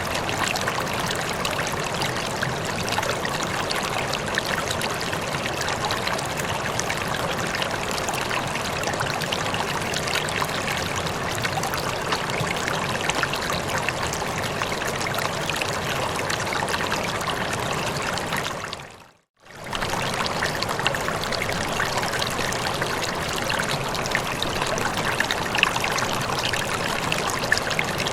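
Steady flowing water, a stream or trickle running continuously. About two-thirds of the way through it fades out to silence for a moment, then comes straight back.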